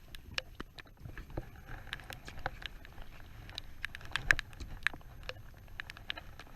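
Raindrops tapping on the boat and gear: scattered, irregular sharp ticks over a low background rumble, with one louder knock about four seconds in.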